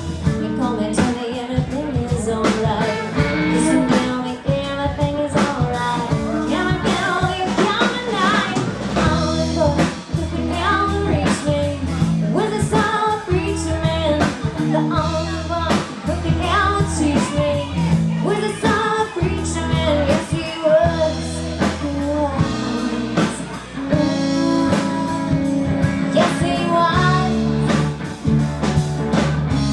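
Live band playing a blues-rock song with a singer, electric guitar, bass and drum kit, through a bar's sound system.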